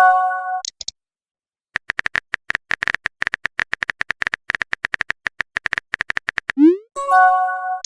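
Phone message sound effects. A notification chime fades out, then about five seconds of rapid, even keyboard-tap clicks are heard. Near the end a rising pop leads into another short chime, the typing-and-message-sent sounds of a text chat.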